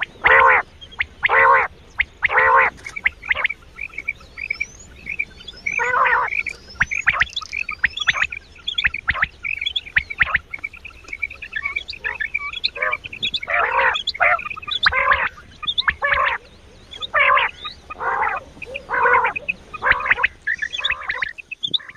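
Quail calls from a quail-hunting call recording: loud pitched calls repeated roughly once a second, thinning out in the middle, with rapid short chirps running between them.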